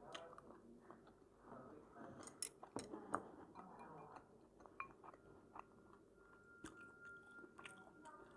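Faint close-up chewing of food, with a few sharp clicks of utensils against dishes about two to three seconds in and lighter ticks later.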